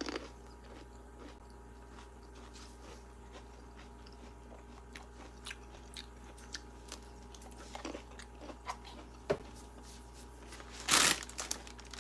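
Close, quiet eating of green grapes: small bites and chewing with faint wet mouth clicks. A brief louder rustle comes about a second before the end.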